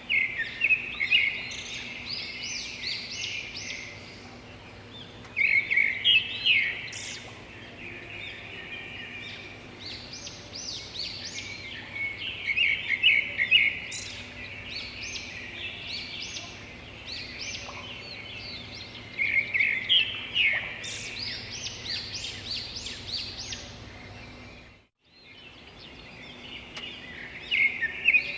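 Songbird singing: a rapid, chattering song phrase lasting a few seconds, repeated about every seven seconds. A faint steady low hum lies underneath, and the sound drops out briefly about 25 seconds in.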